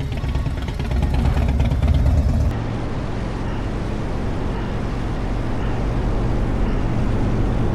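Motorcycle running at road speed, a steady low rumble of engine and wind noise. The sound changes abruptly about two and a half seconds in.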